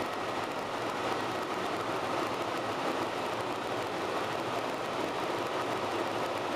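Steady drone of a helicopter's engine and rotor, heard from inside the cabin in flight.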